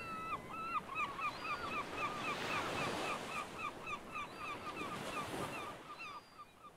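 A bird calling a long, rapid series of short repeated notes, about four a second, over the steady hiss of breaking surf; the surf fades near the end.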